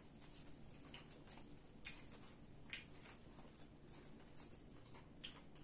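Faint chewing and mouth smacks from biting into and eating a burger: a few soft, scattered clicks over a quiet background.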